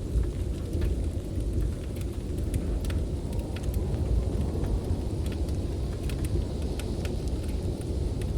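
Blizzard wind as a steady deep rumble, with a wood fire crackling in sharp, irregular pops over it.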